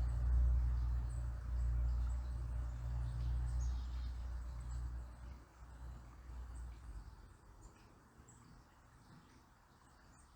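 A low rumble, loudest at the start, that fades away over about six seconds. Under it runs a faint, even flow of river water, and thin, high bird chirps come scattered throughout.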